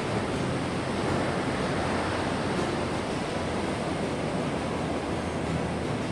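Big typhoon-swell surf breaking and washing ashore: a continuous noise of waves without distinct crashes.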